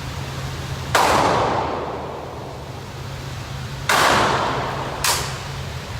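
Three gunshots at a shooting range: two loud ones about three seconds apart, each followed by a long echoing decay, then a shorter, weaker shot about a second after the second.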